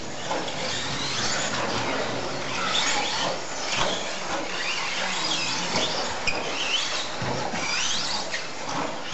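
Radio-controlled stadium trucks racing on a dirt track: several high-pitched motor whines rising and falling as they accelerate and slow, over a steady wash of tyre and dirt noise.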